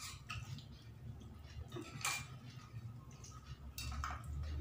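A person chewing fried fish with a few short, sharp mouth smacks and clicks, the sharpest about two seconds in, over a low steady hum.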